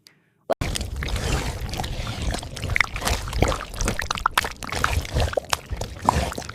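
Dense rushing, crackling noise full of small clicks over a low rumble, starting suddenly about half a second in after a moment of silence.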